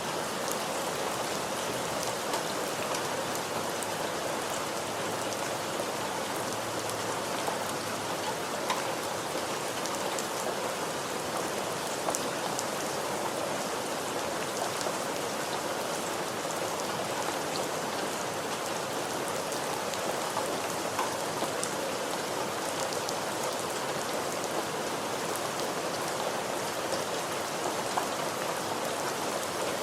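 Steady rain falling on a surface, an even hiss with many small drop ticks and splashes scattered through it.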